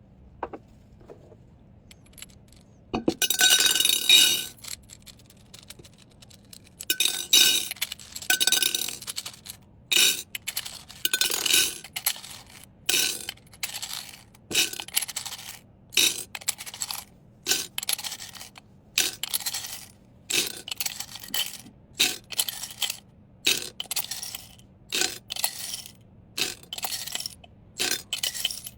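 Small hard items clinking and clattering as they are handled and dropped: one longer rattle a few seconds in, then a run of short clinks about once a second.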